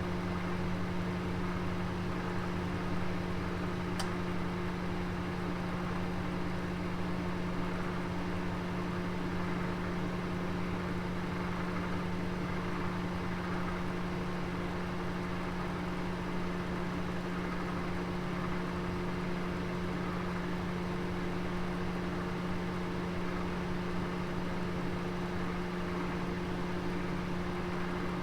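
Oven running with a roast inside: a steady electrical hum over an even whir, with a single tick about four seconds in.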